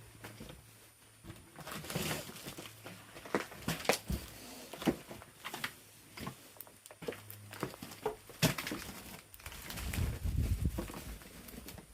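Irregular footsteps with crunches and light knocks, with a low rumble of handling or wind about ten seconds in.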